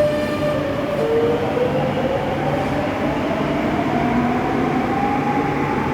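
Madrid Metro train pulling away from the platform: its electric traction motors give a whine that rises steadily in pitch as the train picks up speed, over a steady rumble of the train.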